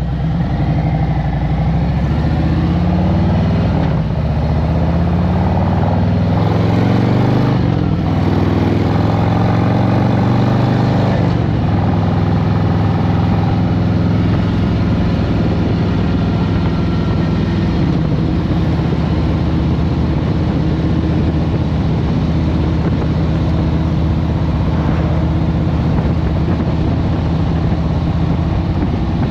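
2023 Harley-Davidson Road Glide Special's Milwaukee-Eight 114 V-twin with a Stage 1 Screaming Eagle air cleaner, pulling away: the engine note rises, drops at a gear change about seven seconds in, rises again, then settles into a steady run from about twelve seconds in.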